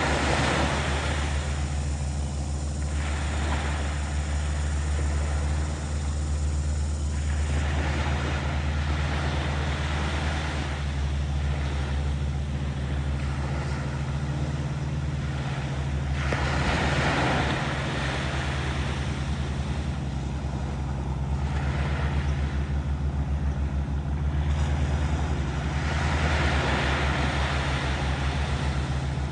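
Steady low drone of a motorboat engine running throughout, with waves washing in as noisy swells that rise and fall every several seconds.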